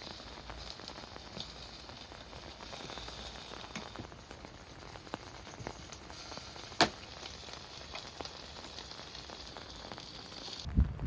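Steady rain falling, with scattered drop ticks and one sharp click about seven seconds in. Near the end the hiss stops abruptly and a low thump is heard.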